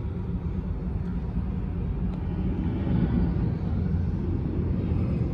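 Low, steady rumble of a jet airliner's engines during takeoff, growing a little louder about three seconds in.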